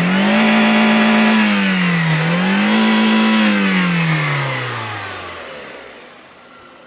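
Car engine revved twice: the engine note climbs and holds, dips briefly, climbs and holds again, then falls back to a quiet idle about five seconds in. It runs smoothly after a tune-up (new spark plug and ignition coil, cleaned throttle body) meant to cure a buck and misfire.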